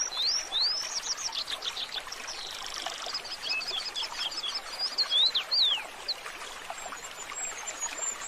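Small birds chirping and singing: a run of quick high rising chirps, then rapid trills and scattered shorter calls.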